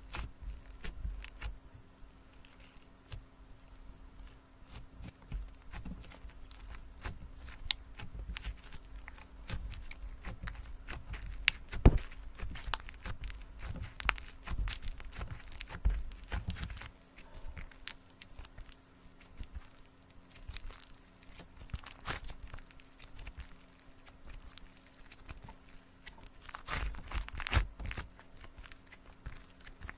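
Slime being handled by hand, with irregular crackling pops and clicks as it is squeezed and stretched.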